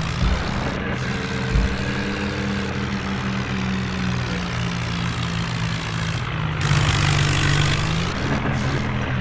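Tractor diesel engine running steadily, louder and harsher for a stretch about two-thirds of the way through.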